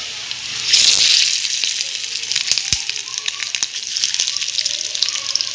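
Sausages sizzling and crackling in hot oil in a frying pan, the sizzle rising to its loudest about a second in. A single light knock comes about halfway through.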